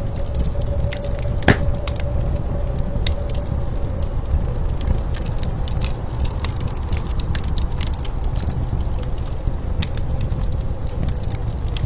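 Wood fire crackling and popping, with one louder pop about a second and a half in, over the steady low rumble of blizzard wind.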